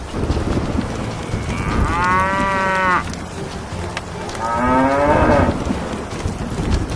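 Two long, drawn-out animal calls, about two seconds apart, the second sliding in pitch, over a steady low rumble.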